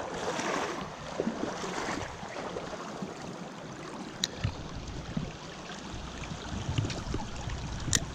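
Small mountain stream running steadily, with a few sharp clicks, the clearest about four seconds in and another near the end.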